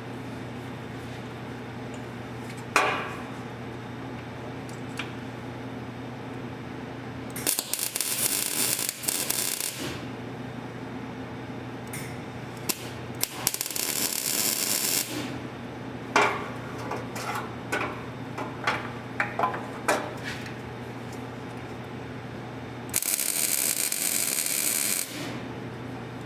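MIG welder tack-welding the exhaust pipe under the Pontiac Grand Am: three crackling bursts of arc of about two seconds each, with metal clicks and knocks between them, over a steady electrical hum.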